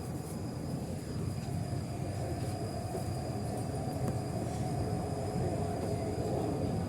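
Interior running noise of an MTR East Rail Line R-train pulling out of a station: a steady low rumble that grows gradually louder as the train picks up speed, with a faint motor tone joining about a second and a half in.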